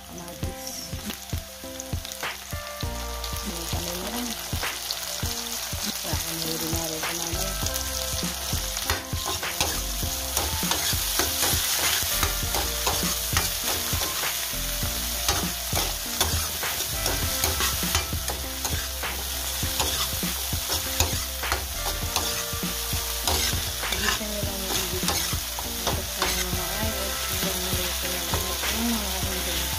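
Chopped garlic, onion and tomato sizzling in hot oil in a wok, with a metal ladle scraping and clicking against the pan as the mixture is stirred.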